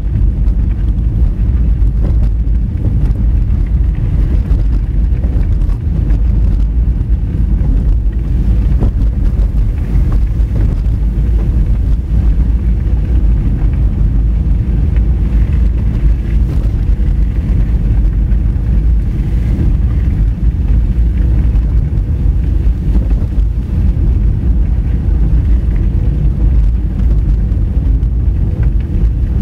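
Car driving on a rough dirt and gravel road: a steady low rumble of tyres and suspension on the loose surface, mixed with wind buffeting the camera microphone, with a few light knocks here and there.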